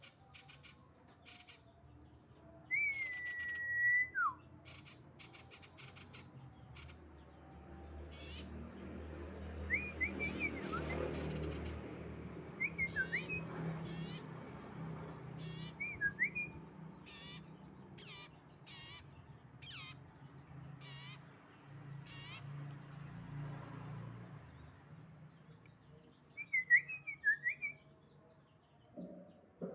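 Juvenile male common iora practising its song: scattered short, high trilled notes and a few clear whistles, including a long whistle that drops in pitch a few seconds in, over a low steady hum.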